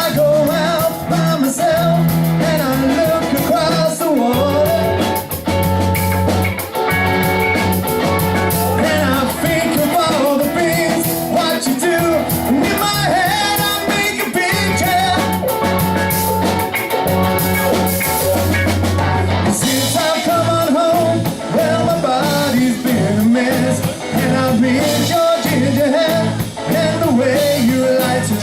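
A band playing an upbeat rock song with a singer, over a steady beat and bass line.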